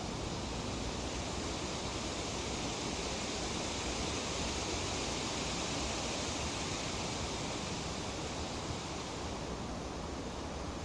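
Breeze rustling through tree leaves: a steady, even hiss that swells a little in the middle, like a gentle gust.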